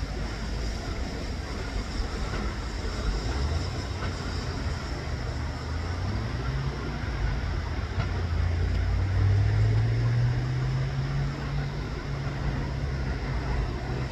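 Low rumble of a train, with an engine tone that comes in about three seconds in and rises in pitch around the middle.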